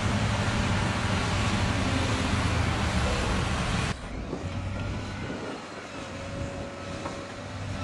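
Stone-delivery truck's engine running, with a loud rushing noise over it that cuts off suddenly about four seconds in, leaving a quieter engine hum.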